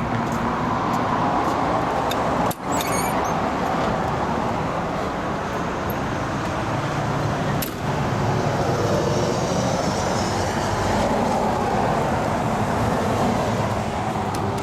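Big rig truck's diesel engine idling steadily, with two brief dropouts.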